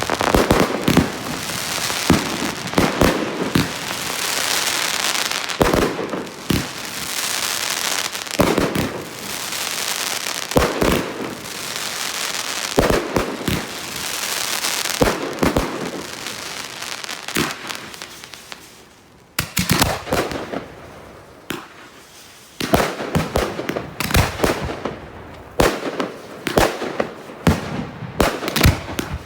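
Consumer fireworks firing in a fast series of launch thumps and bursts, with crackling between the shots. There is a short lull about two-thirds through, then another rapid volley.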